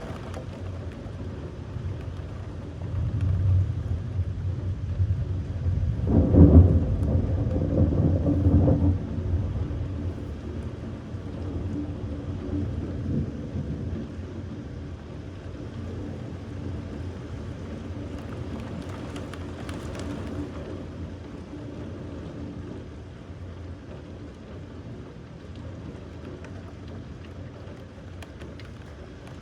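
A roll of thunder with rain falling: a low rumble builds a few seconds in, peaks, then fades out slowly over several seconds.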